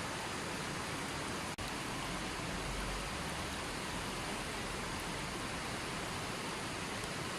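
Running water, a steady, even rush with no other sounds in it. It cuts out for an instant about a second and a half in.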